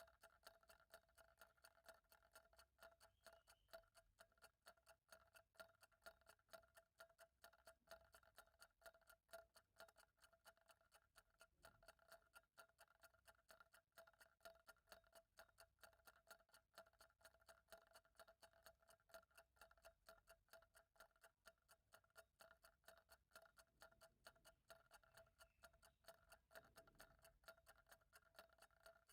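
Faint, steady ticking of a clock, the ticks repeating evenly and quickly without a break.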